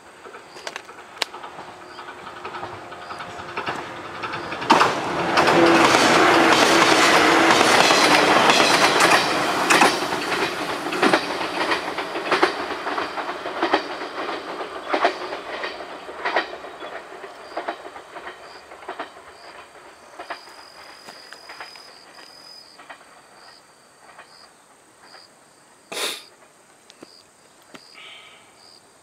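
Electric train passing close by: it builds up, is loudest for several seconds with wheels clacking over the rail joints, then fades slowly as it draws away down the line.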